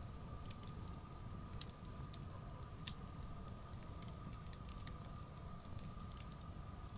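Wood bonfire crackling, with scattered sharp pops and snaps, one louder pop about three seconds in, over a low steady rumble of the fire. A thin steady tone runs underneath.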